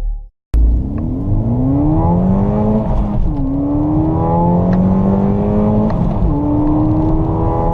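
Car engine accelerating hard from a standstill in a full-throttle sprint: its pitch climbs steadily, drops at an upshift about three seconds in and again about six seconds in, then climbs once more before cutting off suddenly.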